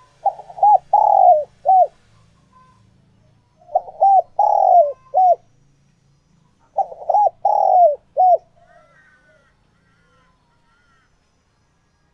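Spotted dove cooing: three phrases of several notes each, about three seconds apart, each with a long note that falls in pitch. Faint, higher chirps follow near the end.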